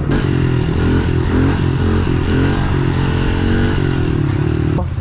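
Pit bike engine running under way, its pitch stepping up and down with throttle and gear changes. It breaks off abruptly just before the end.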